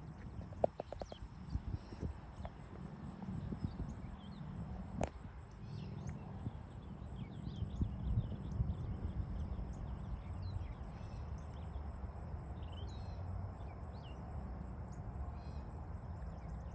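Open-air countryside ambience: an insect's steady, high, rapidly pulsing trill, scattered short bird chirps, and a constant low rumble, with a few sharp clicks near the start and about five seconds in.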